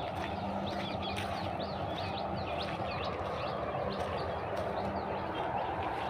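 Small birds chirping in the trees, many short overlapping calls several times a second, over a steady background rush and a faint low hum.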